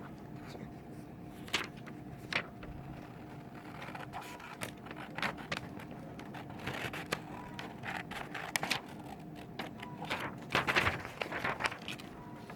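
Scissors snipping through paper, with irregular sharp snips and paper rustling, the busiest stretch about ten seconds in.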